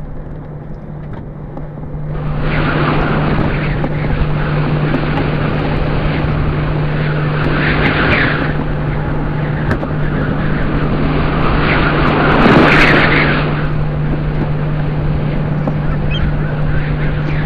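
A steady low engine drone under a rushing noise that swells about eight seconds in and again, loudest, near thirteen seconds.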